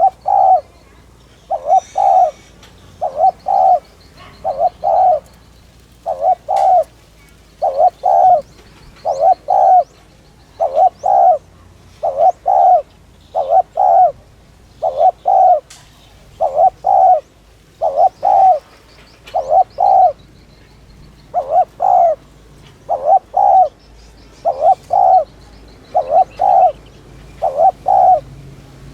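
Spotted dove cooing over and over, each phrase two or three quick low notes, repeating about every second and a half. This is the fast, urging 'thúc' coo that dove keepers play to excite decoy and trainee doves. Faint chirps of small birds sound behind it.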